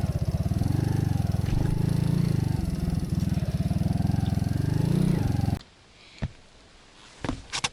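A small engine running steadily with rapid, even firing pulses, which cuts off abruptly about five and a half seconds in. A few sharp clicks or light knocks follow.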